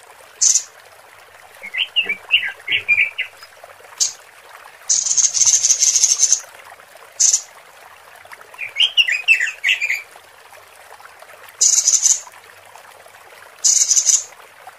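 Female robin calling as a lure: two quick chattering phrases of high chirps. Between them come louder, harsh hissing bursts, some brief and some over a second long.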